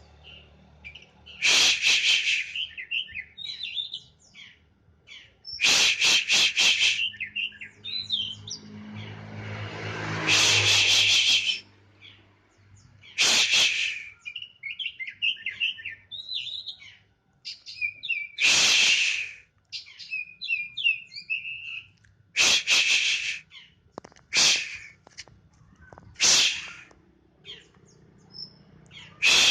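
Caged oriental magpie-robin (kacer) singing: loud bursts of about a second, coming every few seconds, with quieter twittering and warbling phrases between them.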